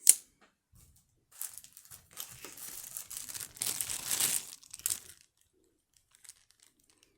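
A sharp click right at the start, then about four seconds of crinkling and rustling of wrapping being handled, which stops about five seconds in.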